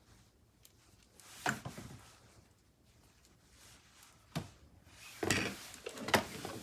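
Handling noises from a robot vacuum's plastic charging base and its power cord: a knock about a second and a half in, another about four seconds in, then a flurry of clicks and rustling near the end.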